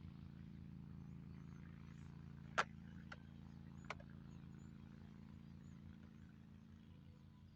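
Faint, steady low drone of a distant engine. A sharp click comes about two and a half seconds in, followed by two fainter clicks about a second apart.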